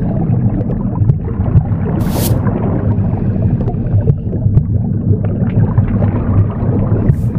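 Womb sound: a steady low whooshing rumble. A broom's bristles swish once about two seconds in and again near the end.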